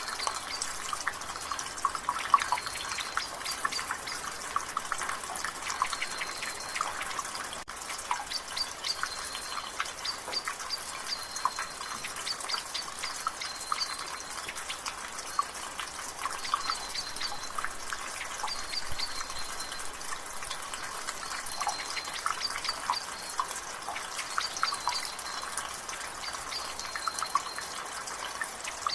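Rainwater dripping from a gutter in quick, irregular drops over a steady hiss of drizzle. A bird repeats a short, high call every couple of seconds in the background.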